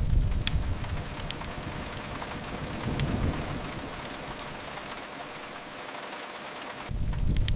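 Steady hiss of rain with sharp crackles and pops from a wood fire. Under it a low rumble is strong at the start, swells again about three seconds in, and comes back near the end.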